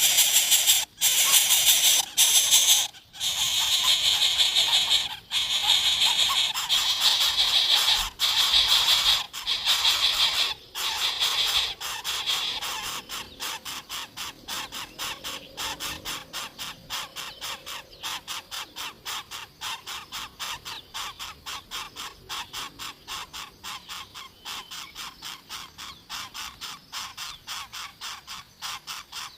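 Coucal nestlings giving harsh, rasping begging calls in loud runs for about the first dozen seconds. The calls then settle into a quieter, fast and even series of short pulses.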